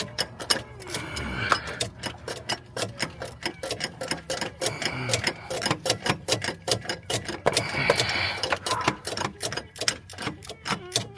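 Hand ratchet wrench clicking in quick runs of sharp ticks, several a second, as a stubborn AC compressor bolt is worked back and forth.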